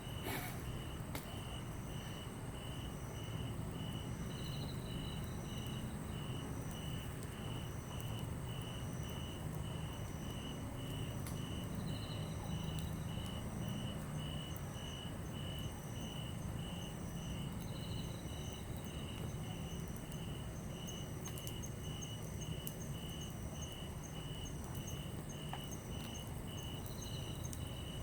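Crickets and other night insects chirping: one keeps a steady, regular chirp about twice a second over a continuous high trill, and another gives a short falling call every few seconds. A small wood campfire crackles faintly now and then over a low steady rumble.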